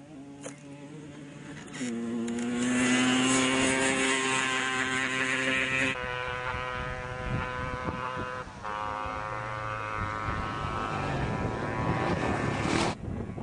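Single-cylinder engines of rally motorcycles or quads at full throttle on the stage. One gets loud about two seconds in and drops away suddenly at six seconds; another builds to a loud pass near the end.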